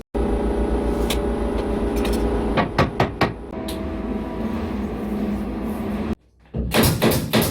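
A steady mechanical hum with a low rumble, broken by a few sharp clicks or knocks about a second in and again around three seconds; the sound drops out briefly near the end.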